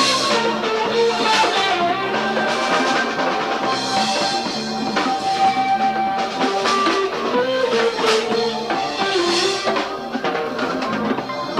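A live band playing an instrumental passage without vocals: guitar with held notes over bass guitar and a drum kit with cymbal crashes.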